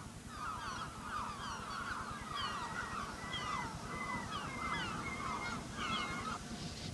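A flock of birds calling over and over in short, falling notes, several overlapping, above a low, even rumble.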